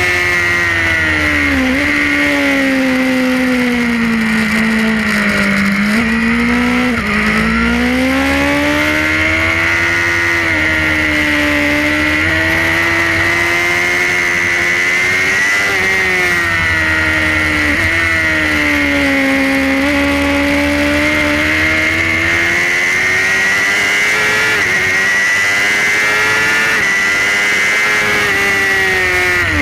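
Suzuki GSX-R sport bike's inline-four engine heard from onboard at racing speed, its pitch rising and falling through the corners, with a few sudden breaks in pitch at gear changes, over a steady rush of wind noise.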